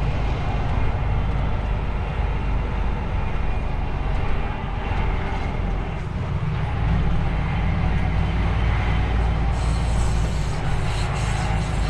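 DAF XF truck's diesel engine running while driving, heard from inside the cab: a steady low drone over road noise. The low hum grows stronger about seven seconds in.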